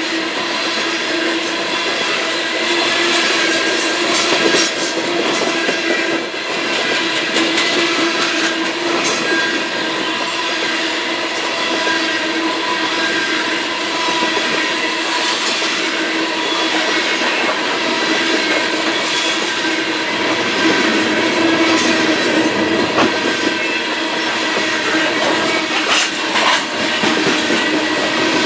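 Union Pacific coal train's cars rolling steadily past, wheels clicking over the rails, with a steady squeal from the wheels and flanges held through.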